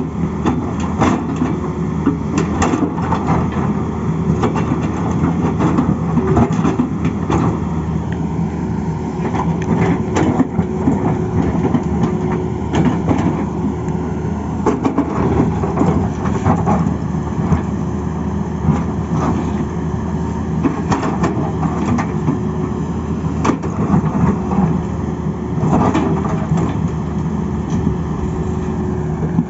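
Tata Hitachi excavator's diesel engine running steadily under work, with frequent short knocks and clatter over it.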